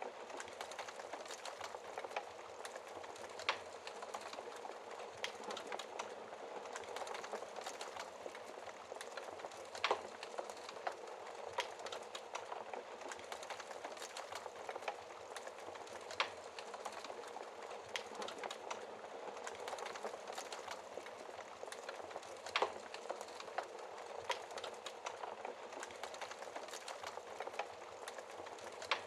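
Wood fire crackling in a fireplace: a steady hiss of burning logs with frequent small crackles and a few sharper, louder pops of the wood spread through.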